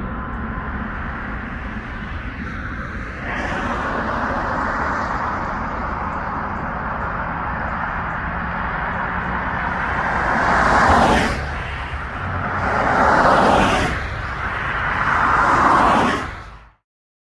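Steady rumbling jet noise of a departed Airbus A320neo dying away in the distance, then three louder whooshing swells about two and a half seconds apart, before the sound cuts off abruptly.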